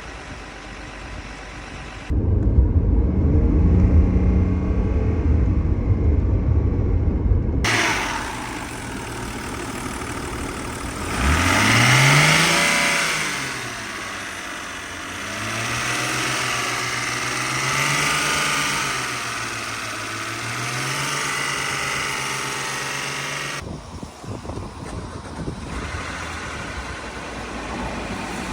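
BMW 528i's N52 straight-six engine running, in which the owner is trying to locate a strange noise. A loud low rumble comes first. About eleven seconds in the engine is revved up, and then it is held at speeds that rise and fall before it settles.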